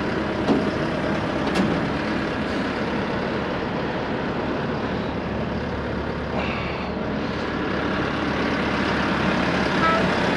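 Forklift engine running steadily while it lifts a skid steer, with two short knocks in the first two seconds and a brief higher-pitched squeal about six seconds in.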